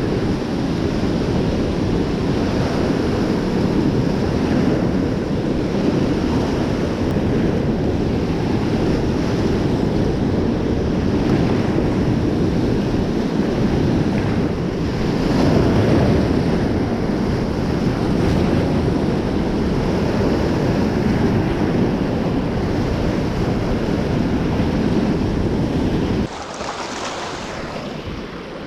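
Steady loud rush of high, fast-flowing river water, with wind buffeting the microphone. About 26 seconds in it drops suddenly to a quieter, thinner hiss.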